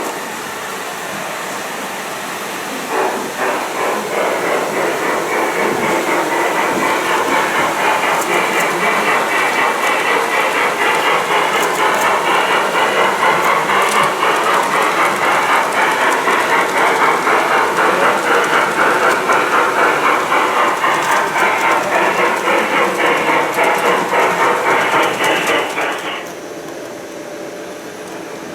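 G-scale model train running along garden-railway track, its wheels clattering over the rail joints in a steady rhythm of about three beats a second. The sound builds up and then drops away suddenly near the end.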